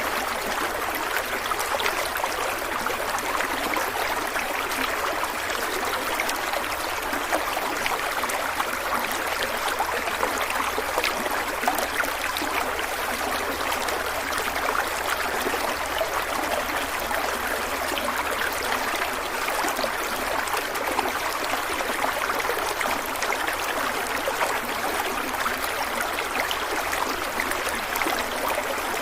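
Stream of water running steadily, an even rushing and burbling with no break or change.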